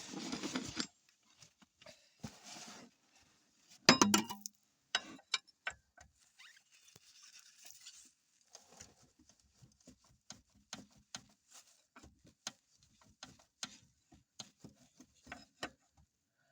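Worn ball joint in a Hyundai Porter's front suspension knocking: many short, irregular clicks and knocks, a few a second, with a louder clattering burst at the start and another about four seconds in.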